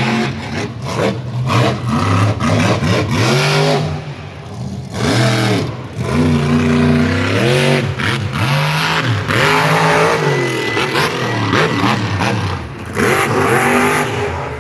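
Kraken monster truck's engine revving hard over and over, its pitch climbing and falling in quick repeated swings as the throttle is worked on and off, with brief lulls about four seconds in and near the end.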